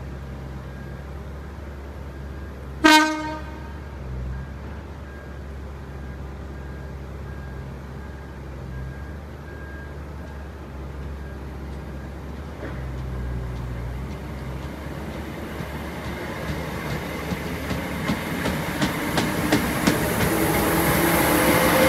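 A Class 319 electric multiple unit gives one short horn toot about three seconds in, then pulls away. Its wheels clack over the rail joints faster and louder as it nears and passes, and a rising whine comes in towards the end as it gathers speed.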